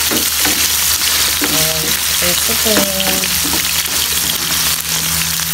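Cubed carrots sizzling in hot oil in a nonstick wok while a spatula stirs them: a steady frying hiss.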